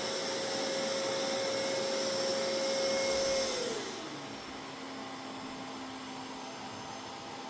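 Mova Z60 robot vacuum running at boosted suction with a steady whine. About three and a half seconds in, the whine slides down in pitch and the motor gets quieter as the suction drops back. The owner guesses the boost was for a spot it took to be dirty.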